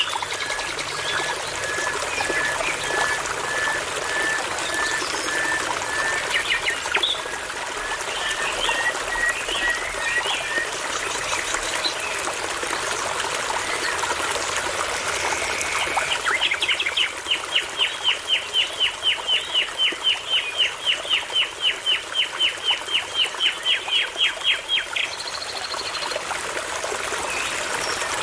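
Songbirds singing over the steady rush of a babbling brook. Early on one bird repeats a short whistled note over and over, slowly rising in pitch. Then, from a little past halfway to near the end, a bird gives a loud rapid series of identical falling notes, about four a second, for around eight seconds.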